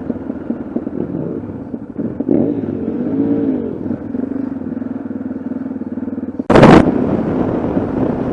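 Motorcycle engine running on the road, its pitch rising and falling with the throttle between about two and four seconds in. About six and a half seconds in there is a short, very loud burst of noise.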